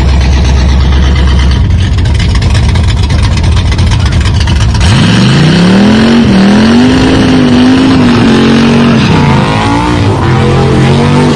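A car engine running with a low steady rumble, then about five seconds in revving up in a smooth rise and holding high revs that waver, dropping back briefly near the end.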